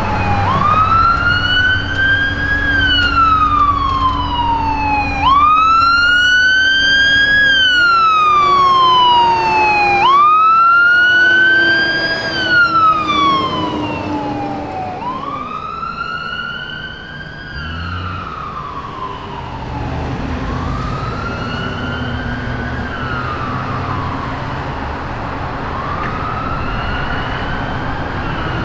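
Fire truck siren wailing: each cycle climbs quickly and then falls slowly, repeating about every five seconds. It is loudest in the first half and grows fainter after about thirteen seconds.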